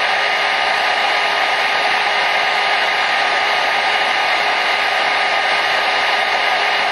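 Hair dryer running steadily: an even, constant rush of blown air with a faint steady motor whine, used as white noise to soothe a baby to sleep.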